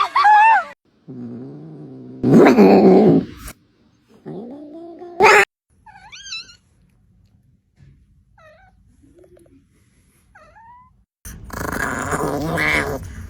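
Angry cats growling and yowling in a series of short clips: a low growl, a loud drawn-out yowl, rising wails, then several faint, high little cries.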